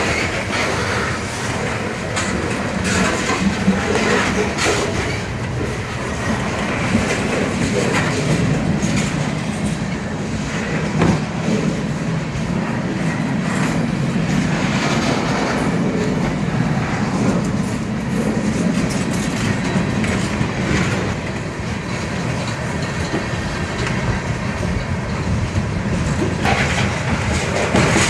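Freight train cars rolling past close by: a steady rumble with wheels clicking and clattering over the rail joints.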